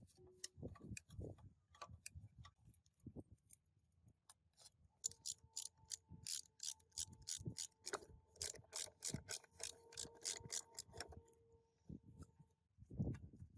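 Faint scattered knocks of metal parts being handled. About five seconds in, a rapid, regular metallic clicking starts, about three or four clicks a second, with a faint steady ringing tone underneath. It stops shortly before a low thud near the end.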